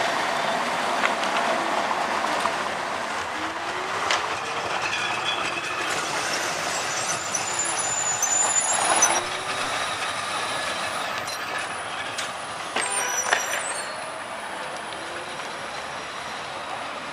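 Historic tram running over steel rails, a steady mechanical rumble with sharp clanks and high squeals about halfway through and again around two-thirds of the way, easing off near the end.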